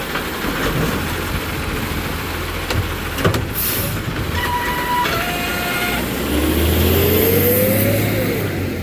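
Garbage truck engine running steadily, with a short hiss of air near the middle, a few steady electronic tones just after, then a rising whine as the engine revs up for about two seconds before dropping off near the end.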